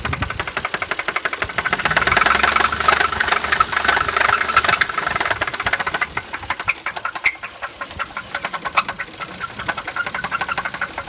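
Toyota 2JZ-GE inline-six engine running with a rapid, evenly spaced ticking knock. It grows louder for a few seconds about two seconds in, then eases back down. The owner puts the knock down to bent valves.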